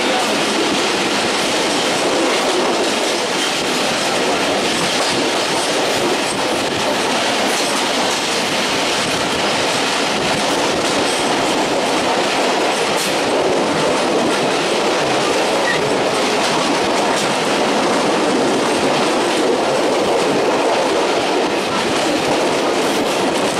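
Betna Express passenger train running steadily, heard from on board: a loud, even noise of the wheels on the rails.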